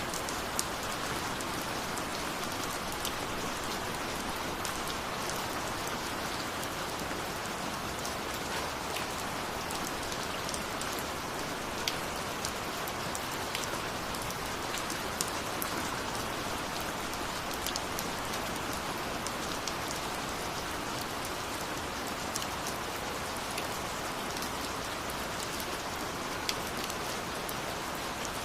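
Steady rain falling, with a continuous hiss and the sharp taps of individual drops landing here and there.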